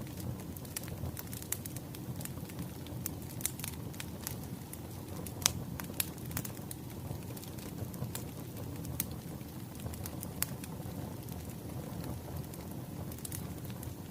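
Wood fire burning, a steady low rumble of flames with irregular sharp crackles and pops of burning firewood; one louder pop about five and a half seconds in.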